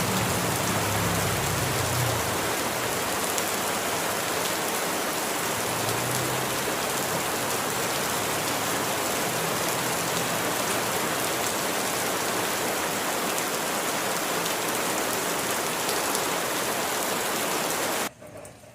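Steady rain falling, with a low hum under it for the first couple of seconds. The rain cuts off abruptly near the end.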